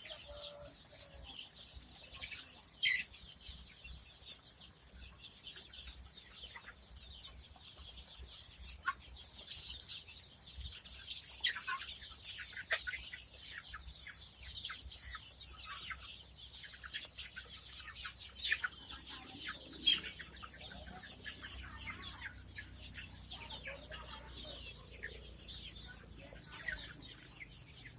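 A flock of poultry, guinea fowl and hens, calling together: a steady chatter of many short, overlapping chirps and clucks, with a few sharper, louder calls, one about three seconds in and another near twenty seconds.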